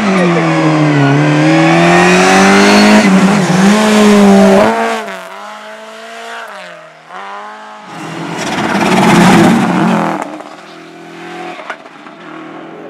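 Rally car engine revving hard through the gears as it passes close, its pitch climbing and dropping at each shift, then fading away; about eight seconds in, the engine comes through loud again before dying off.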